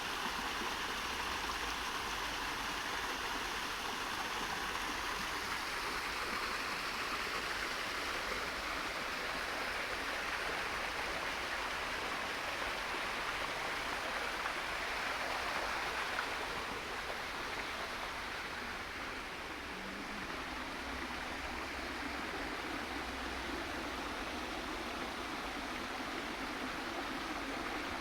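Garden waterfall: a steady rush of falling water, easing slightly a little past the middle.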